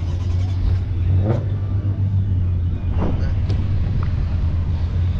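A car engine running steadily, a deep low hum, with two brief sharper sounds over it about a second and three seconds in.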